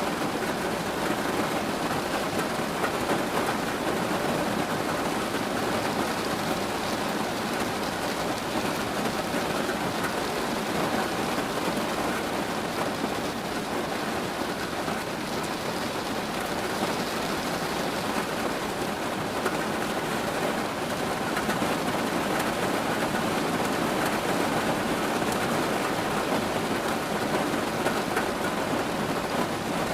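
Steady rain falling, an even hiss of drops that does not let up or change.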